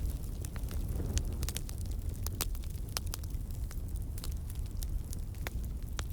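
Campfire burning, with sharp crackles and pops at irregular moments over a low steady rumble of flames.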